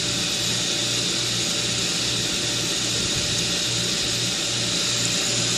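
Pool pump's electric motor running steadily: a constant hum under a broad hiss.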